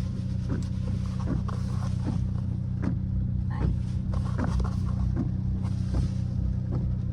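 Straight-piped V6 Dodge Charger SXT idling steadily, a low even exhaust drone, with small scattered ticks and creaks over it.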